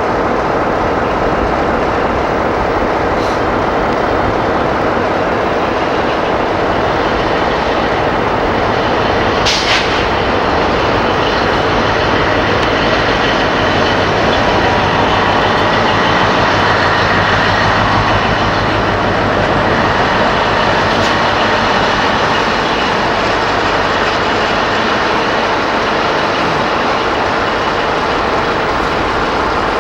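A train hauled by a BR Class 60 diesel locomotive, running with a steady, loud noise of engine and wheels. There is a single sharp click about ten seconds in.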